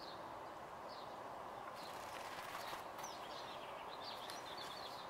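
Faint, scattered small-bird chirps over a steady outdoor background hiss, with a quicker run of chirps about four seconds in.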